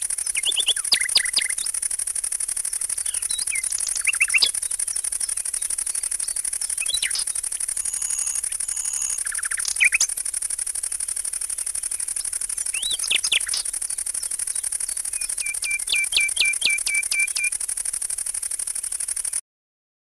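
Songbirds chirping, with scattered short sweeping calls and a quick run of about seven repeated notes near the end, over a steady high-pitched hiss. The sound cuts off suddenly just before the end.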